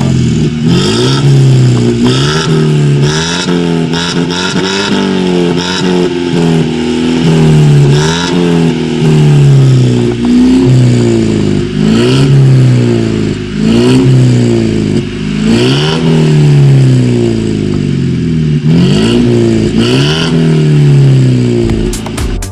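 BMW 118 engine being revved through a modified exhaust, blipped again and again: each rev climbs quickly and falls back slowly, about one every second and a half.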